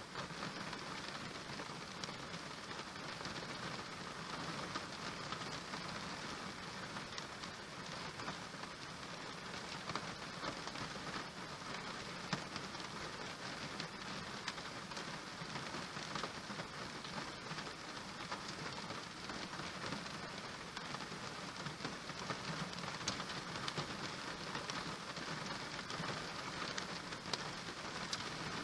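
Steady rain falling on a surface, with occasional louder individual drops ticking through it.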